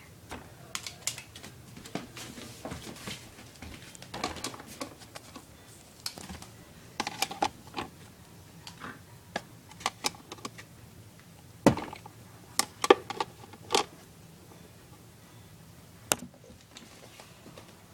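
Irregular clicks and taps of hard plastic toy pieces being handled and snapped into place, with a few louder knocks about two-thirds of the way through.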